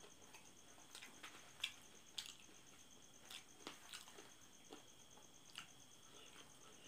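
Faint wet chewing and lip-smacking of a mouth eating saucy chicken feet: scattered short sharp smacks and clicks, the loudest about one and a half and two seconds in.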